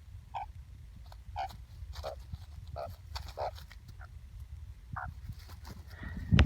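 Australian magpie giving a string of short, harsh squawks, about one every half second to second. A loud thump comes near the end.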